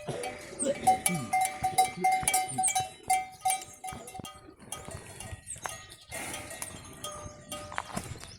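Livestock bells ringing and clinking, with a falling animal call about a second in.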